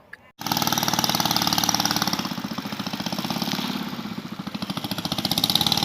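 A boat's engine passing on the canal, running steadily with a fast, even pulse. It cuts in abruptly about half a second in, eases off slightly midway, then grows louder again near the end.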